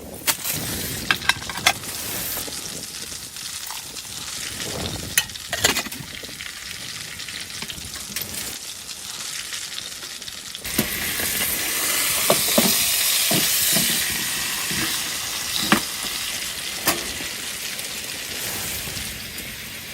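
Something sizzling in a hot pan, with light clinks and taps of a utensil. About halfway through, the sizzle jumps suddenly louder and then eases off slowly.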